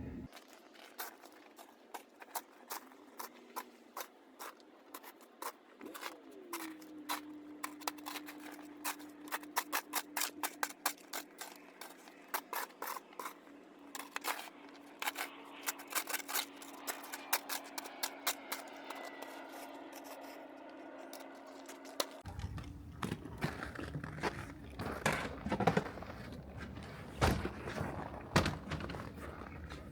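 Many rapid scraping and crunching strokes, with a steady low hum from about six seconds in that stops about twenty-two seconds in.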